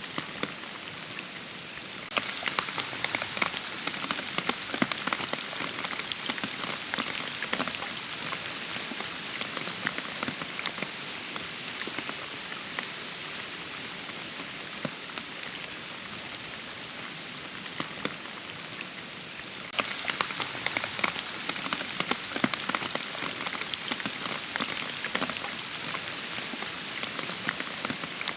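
Steady rain falling, with many separate drops pattering and ticking over an even hiss. The drop hits grow denser and louder about two seconds in, ease off past the middle, and pick up again about two-thirds of the way through.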